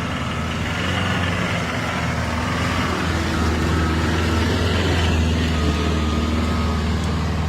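Toyota LandCruiser 4WD engine running steadily at low revs, a continuous low hum with a slight swell in level midway.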